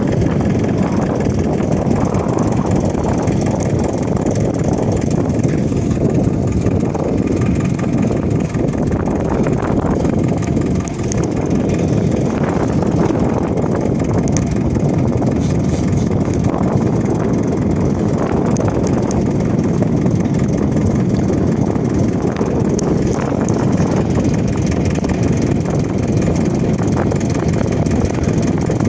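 Steady, loud rush of air around a K21 glider in flight, with no changes.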